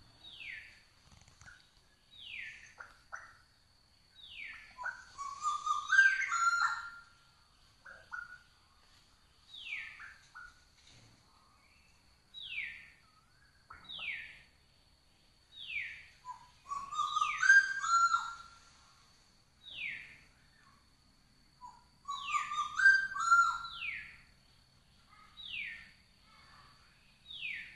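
Birds calling in forest: a short, falling whistled note repeated every one to two seconds, and three times a louder, more complex phrase of stepped notes, over a steady high-pitched tone.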